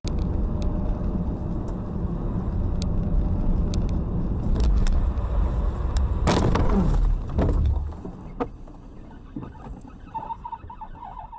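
A car on the road heard from inside: a heavy, steady rumble of engine and tyres with scattered clicks. About six seconds in comes a loud burst of noise, then the rumble drops away, and near the end a pulsing beep-like tone sounds.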